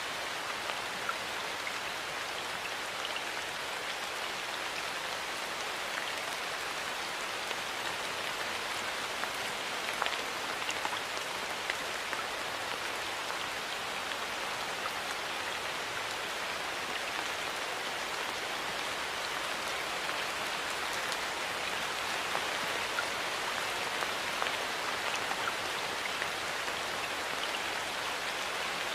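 Steady rainfall, an even hiss with scattered individual drops pattering on surfaces.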